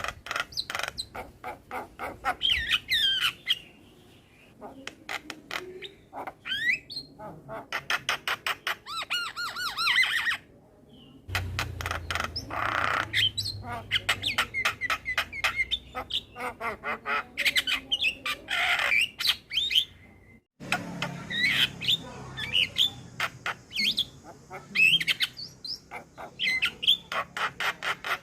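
Male Javan myna (jalak kebo) singing a full, varied song: fast harsh rattling chatter mixed with squawks and short whistled notes. The song breaks off briefly twice.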